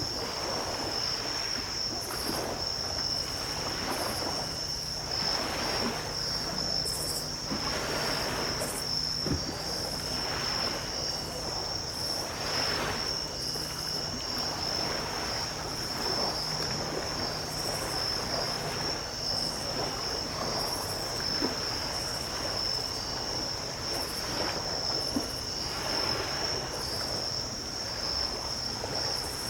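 Small ocean waves breaking and washing up a sandy beach, one swell every couple of seconds, under a steady high-pitched trill of night insects such as crickets.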